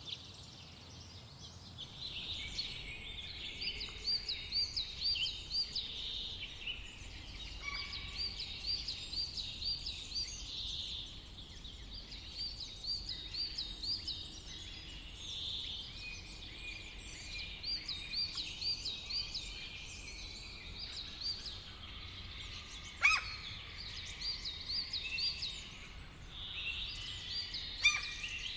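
Songbirds singing in a summer forest: phrases of quick repeated notes, with a steady low background hum. Two sharp clicks stand out, one about two-thirds of the way in and one near the end.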